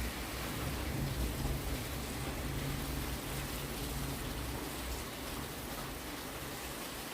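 Heavy rain falling steadily, with a low rumble of distant thunder underneath that dies away about five seconds in.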